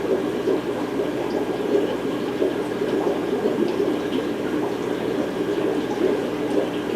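Steady bubbling and trickling water from the aquarium filtration running across a fish room full of tanks.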